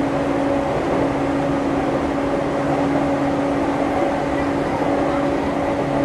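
Running sound inside the JR East E231-900 series motor car MoHa E231-901 (Hitachi IGBT-VVVF) between stations: steady wheel-on-rail rolling noise with an unchanging low hum, the train holding a steady speed.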